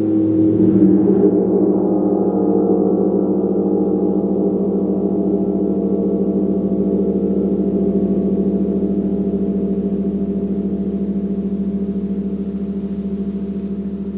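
Gong being played: a loud, bright swell in the first second or so, then a long low ringing with a pulsing wobble that slowly fades.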